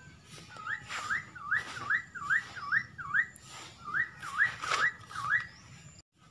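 A bird calling with quick, rising whistled notes, about two to three a second, in two runs with a short break about three seconds in.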